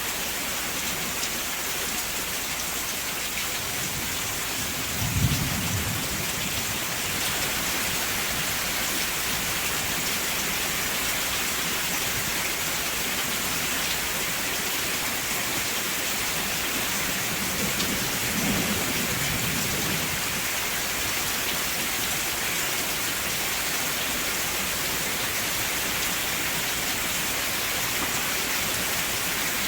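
Steady heavy rain, with low rolls of thunder: a short sharp one about five seconds in and a longer rumble around eighteen seconds in.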